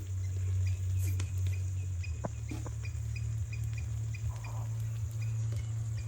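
A steady low rumble that starts suddenly, with a small creature's short high chirp repeating evenly about two and a half times a second throughout.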